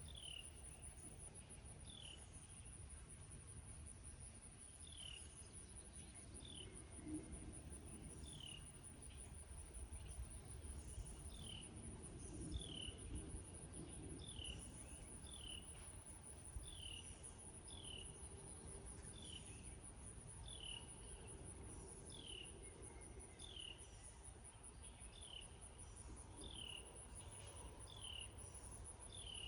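Crickets keep up a steady high-pitched trill, and a bird repeats a short falling call about once a second. Faint rain noise sits low beneath them.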